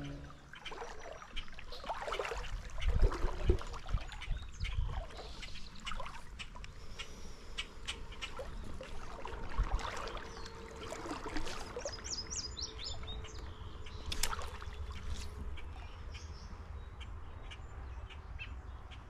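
Small birds chirping and calling, including a quick trill of notes falling in pitch about two-thirds of the way through, over a steady low rumble. A few dull knocks come about three seconds in.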